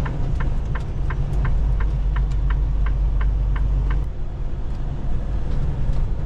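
A semi truck's turn signal ticking about three times a second inside the cab over the steady drone of the truck's engine. The ticking stops about three seconds in, and the engine drone drops soon after.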